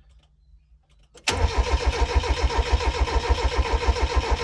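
Mazda MX-5 Mk1's starter motor cranking the four-cylinder engine over without it firing: a steady, fast, rhythmic churn that starts about a second in. The engine turns over freely, so it is not seized.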